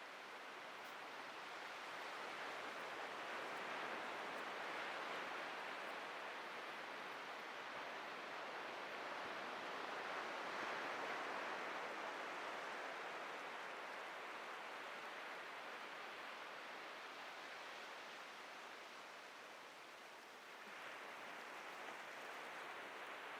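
Atlantic surf washing onto a beach: a continuous hiss of breaking waves that swells and eases in slow surges, with a fresh wave coming in about twenty seconds in.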